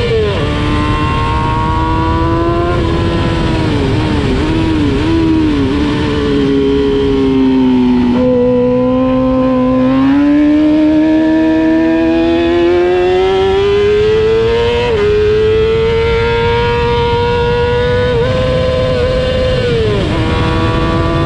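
Race motorcycle engine heard onboard at racing pace, its pitch climbing through the gears and dropping at each shift, with a few quick throttle blips on downshifts early on and a long climb in the middle. Wind rushes over the microphone throughout.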